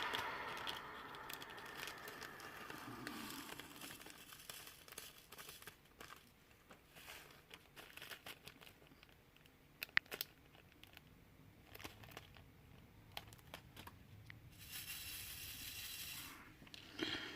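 Faint diamond painting work: scattered small clicks of a drill pen picking up resin drills and pressing them onto the canvas, with plastic film crinkling and a longer soft rustle about 15 seconds in.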